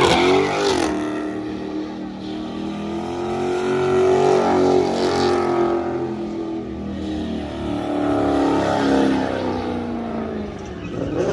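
A car engine revving hard and loud, its pitch swelling up and falling back in two long waves, about four and nine seconds in.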